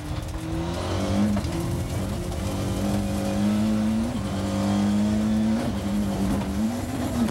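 Ford Escort rally car's engine heard from inside the cabin, running hard at high revs, its pitch climbing and dropping back about four times as the driver shifts or lifts on a loose dirt course.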